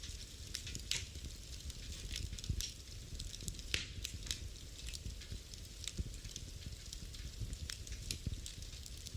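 Fire in a fireplace crackling, with irregular sharp pops over a low steady rumble and one louder pop about four seconds in.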